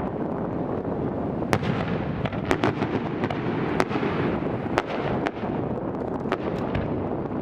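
Aerial fireworks going off: about eight sharp bangs and cracks at uneven intervals, some in quick pairs, over a steady low rumble.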